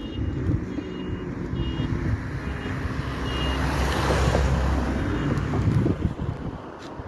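Heavy construction vehicle's diesel engine running, with its reverse alarm beeping repeatedly for the first few seconds; the engine grows louder about four seconds in.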